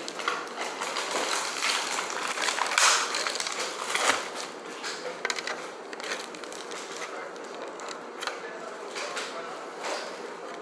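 Close-miked chewing of a mouthful of rice, beans and liver coated in crunchy farinha de puba (toasted cassava flour), with crackling crunches and mouth sounds, busiest in the first few seconds. A plastic fork clicks and scrapes against the aluminium foil tray.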